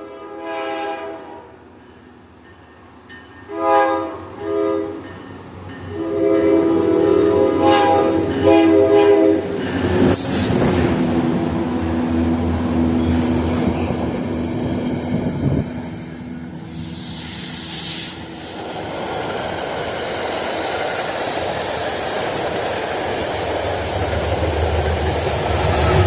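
A train horn sounding a chord of several tones: a long blast, two short ones, then a long blast of about three seconds. A train then passes close by with a continuous rumble and the clatter of wheels over the rails.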